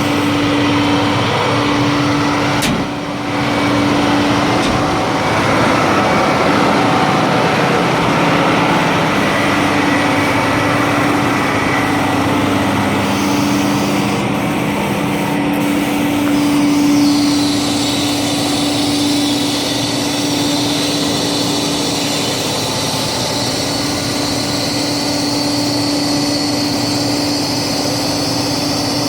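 2000 International 4900 garbage truck's diesel engine running steadily, with a constant whine over it. About seventeen seconds in, a higher hiss joins and stays.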